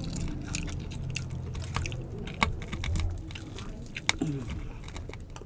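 Close chewing and biting of crispy deep-fried pork belly (bagnet), with a few sharp crackles from the crisp skin.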